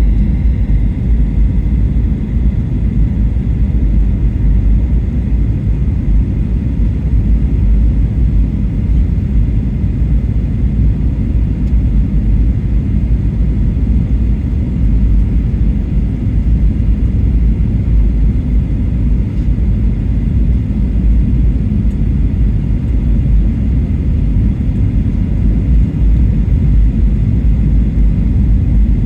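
Steady low rumble inside the cabin of a Boeing 737-800 on its landing approach: the noise of its CFM56 jet engines and the air rushing past the fuselage.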